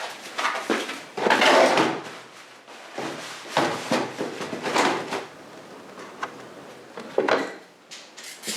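Workshop handling noises: a run of irregular scraping and knocking sounds, as of tools and parts being moved about, the loudest about a second in.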